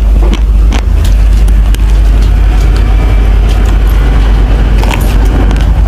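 Close-miked chewing of a mouthful of raw basmati rice: dense crunching and crackling of the dry grains over a steady low rumble.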